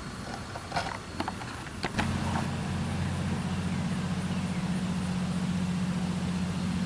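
A few sharp clicks, then about two seconds in an engine starts and keeps running steadily at a low, even idle.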